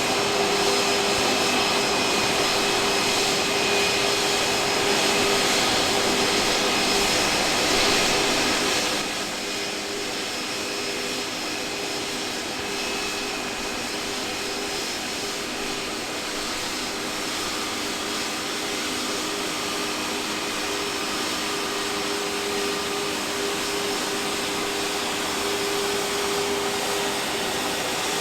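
Jet engine noise: a steady rush with a steady whine, dropping noticeably and losing some of its hiss about nine seconds in.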